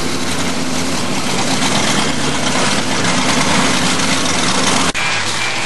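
Car engine idling, a steady low rumble. Near the end there is a brief dropout, after which the deep rumble is gone.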